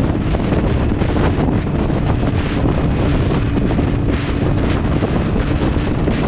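Loud, steady wind buffeting the camera microphone, as on a motorcycle at speed, with a faint steady hum underneath that fades about four seconds in.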